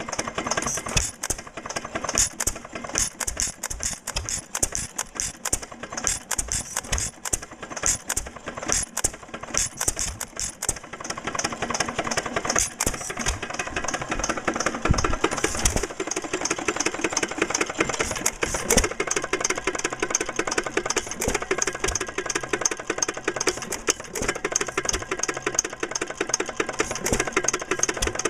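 Small gasoline engine running with a rapid clattering beat, settling into a steadier, more even rhythm about halfway through.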